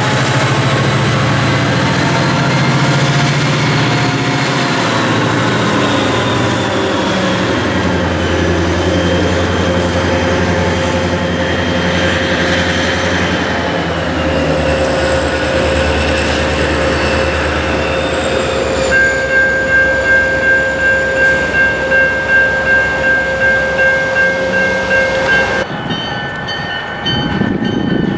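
Diesel freight locomotive rumbling slowly through a grade crossing, its train cars rolling behind. The crossing bell rings about twice a second, clearest in the later part, before the sound cuts abruptly to a more distant train.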